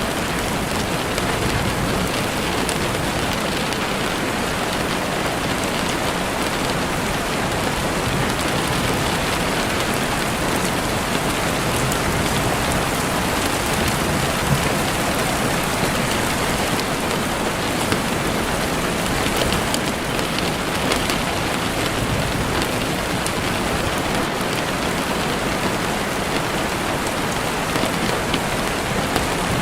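Steady rain falling, with a few faint crackles from a campfire now and then.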